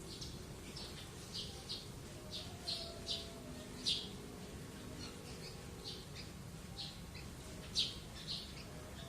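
Free-living birds chirping: short, sharp high calls at irregular intervals, the loudest about four seconds in and near the end, over a low steady background rumble.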